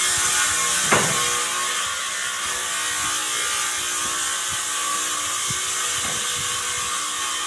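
A power tool running steadily with a high, hissing sound, switched on just before and with a sharp click about a second in.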